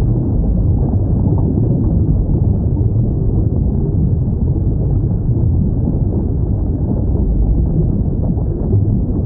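Steady low underwater rumble from a whale-sound recording, with no distinct whale calls standing out.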